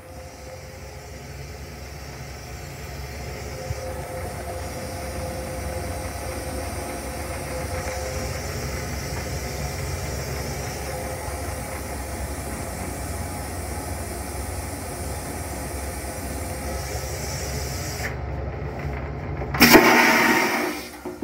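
Steady rumble and hiss of a moving Long Island Rail Road M3 railcar heard from inside its stainless-steel restroom, building over the first several seconds and then holding level. Near the end comes a loud rushing burst lasting about a second.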